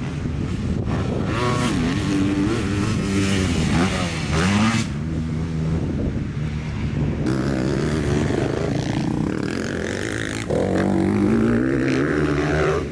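Motocross dirt bike engine revving up and down as it rides, its pitch rising and falling with the throttle. The sound changes abruptly about ten and a half seconds in.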